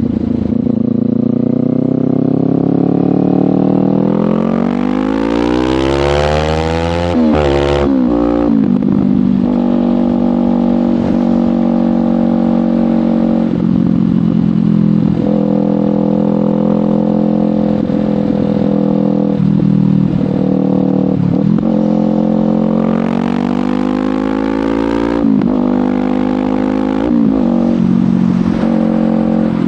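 Kawasaki Ninja 500 parallel-twin engine breathing through a LeoVince GP Corsa Evo exhaust while riding. It revs up steadily for several seconds, drops sharply, and then holds a steady cruise with brief dips. Near the end it revs up and drops twice more.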